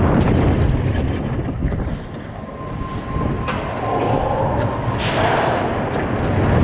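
Vekoma roller coaster train running along its track with a loud low rumble and repeated rattling knocks.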